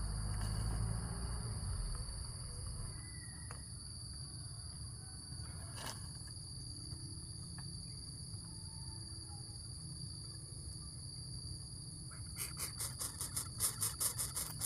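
Insects, crickets or similar, keeping up a steady, high-pitched trill. Near the end a rapid, pulsing insect chirp sets in and grows louder. A low rumble is heard in the first couple of seconds.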